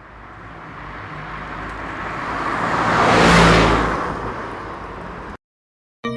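A vehicle passing close by: a rushing engine-and-road sound that builds steadily to a peak about halfway, then fades and cuts off suddenly.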